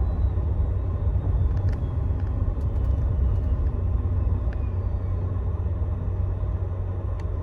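Steady low rumble of a Scania Astromega double-decker coach, heard from inside at the front, with a few faint ticks about two to three seconds in.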